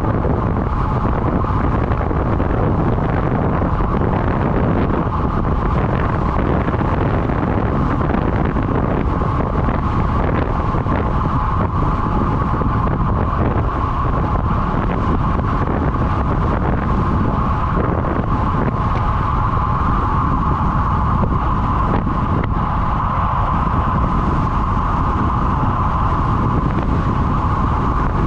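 Steady rush of wind on the microphone of a road bike moving at speed, with a constant whine from the tyres or drivetrain held at one pitch.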